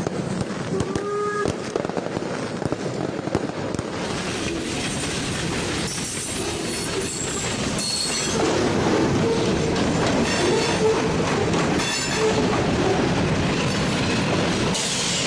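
Fichtelberg Railway narrow-gauge train running along the track, wheels clacking over the rail joints with short high-pitched wheel squeals. It grows louder after about eight seconds.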